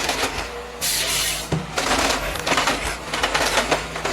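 Heavy forestry machine's engine running steadily, overlaid by repeated loud, noisy surges of crackling and rushing as it works timber.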